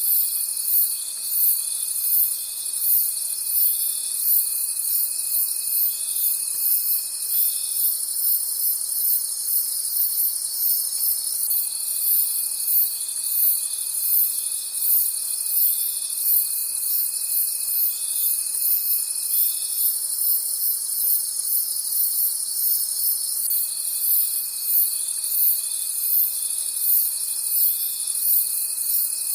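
Night-time crickets chirping in a fast, even, very high-pitched pulse. Beneath it a lower steady trill sounds for about eight seconds at a time, stopping twice for a few seconds.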